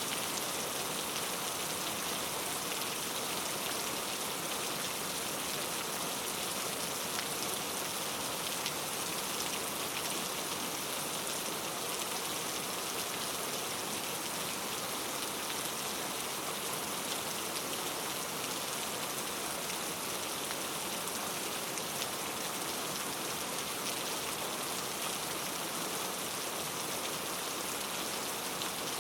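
Steady rainforest rain falling on foliage and the ground, an even hiss with fine drips scattered through it.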